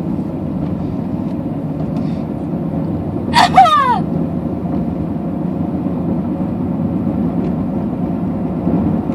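Steady road and engine noise inside a moving car's cabin, broken about three and a half seconds in by a short, loud cry that falls in pitch: a pained moan from a patient in a sickle cell pain crisis.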